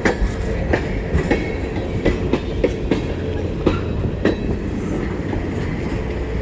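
CN mixed-freight train rolling slowly past: a steady low rumble with irregular sharp clicks as the car wheels cross rail joints.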